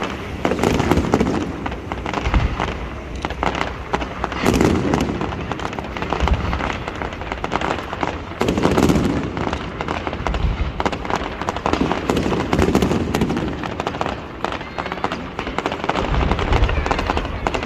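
Aerial fireworks display: a dense, continuous crackle of many small bursts, with heavier booms swelling up about every four seconds.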